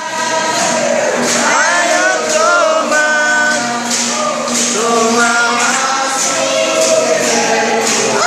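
A group of voices singing together in held, gliding notes, with percussion strokes marking the beat.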